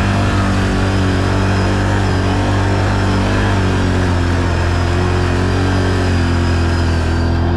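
ATV engine running at a steady pitch while riding, with a rushing noise over it.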